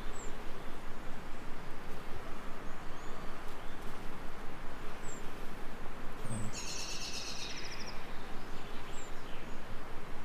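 Steady hiss of gentle rain, with short high bird chirps every few seconds and a rapid trilled bird song about six and a half seconds in, lasting about a second.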